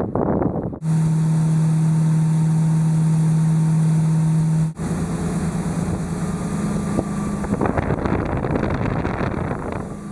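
A motor running at a steady pitch, with wind and water noise. The sound cuts off abruptly about a second in and again about halfway through, each time giving way to a similar steady drone, the second one slightly higher.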